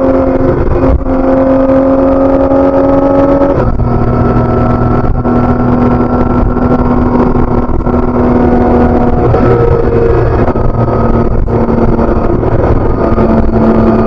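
BMW K1600B inline-six engine through its stock exhaust while riding. The engine note climbs gently, then drops about a third of the way in and twice more later, as at gear changes.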